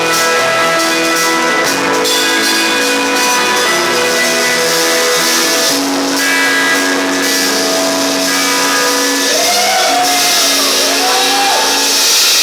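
Live rock band playing, electric guitar holding long chords and notes as the song closes. In the last few seconds, wavering slides rise and fall in pitch above the held chords.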